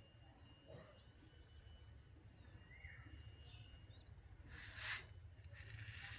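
Faint, short, high bird chirps over a steady low hum, with a brief loud burst of noise just before five seconds in.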